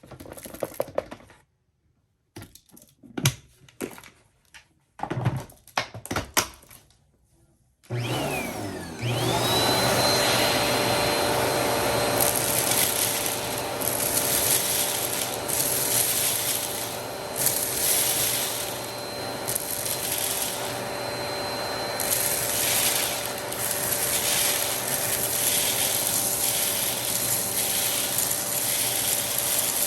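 A few sharp clicks and knocks, then about eight seconds in a vacuum cleaner switches on with a rising whine and runs steadily, its hiss rising and falling.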